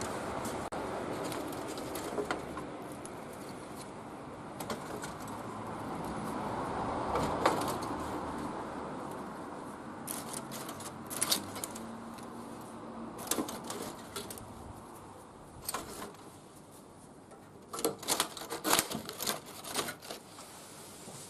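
Wood fire burning in a barbecue grill: a rushing hiss that swells and fades, then sharp crackles and pops that come thicker near the end.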